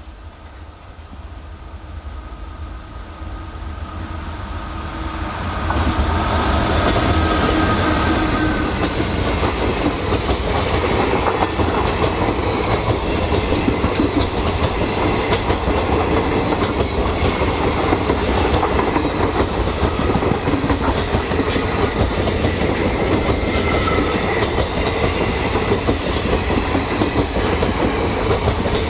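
Passenger train approaching, growing louder over the first six seconds, then its coaches running past with a steady, dense rolling rumble of wheels on rail.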